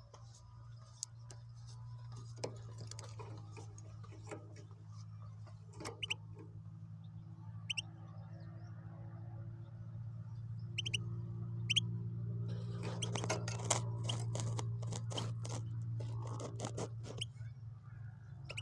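Goldfinch × canary hybrid giving a few short, high chirps, then a louder run of rapid, scratchy, clicking notes in the second half, over a steady low hum.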